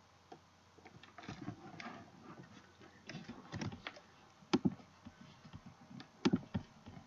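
Computer keyboard being typed on, with irregular keystrokes and clicks and a couple of sharper clicks about halfway through and near the end.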